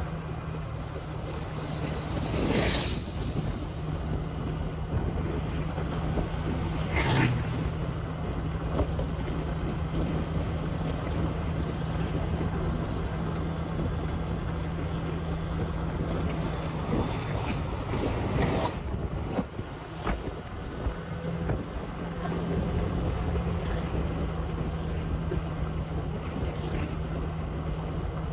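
Motorbike engine running at a steady cruising speed, with wind rumble on the microphone. Three brief louder swells of noise come about 3, 7 and 18 seconds in, and the engine's steady tone drops away for a few seconds near the two-thirds mark.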